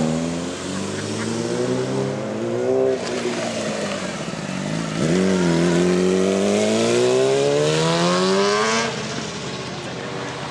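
A car engine revving hard twice. The pitch climbs for about three seconds and falls back, then after a quick blip it climbs again for about four seconds and cuts off abruptly near the end.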